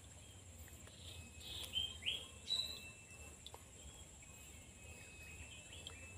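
Wild birds chirping in the riverside vegetation: three or four short calls close together about two seconds in, then a faint thin whistle, over a steady high-pitched hum of outdoor background.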